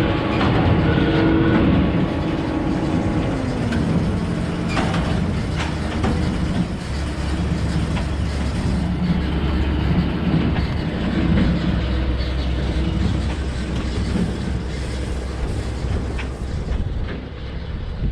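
Large farm tractor's diesel engine running under field work, with a steady low drone and rattling, clanking clatter; the engine note dips slightly a couple of seconds in.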